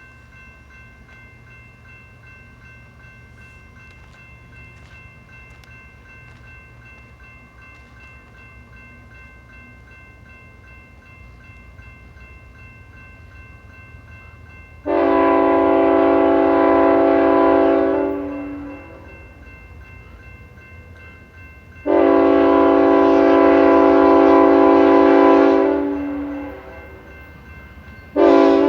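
Freight locomotive air horn, from BNSF ET44C4 lead unit 3900, sounding the grade-crossing signal: two long blasts of about three seconds each, then a short one near the end. Beneath it is the low, steady rumble of the approaching train.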